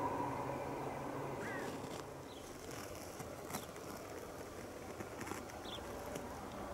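Faint outdoor ambience with the steady hum of a distant electric train, which fades out about two seconds in, and a few short bird chirps.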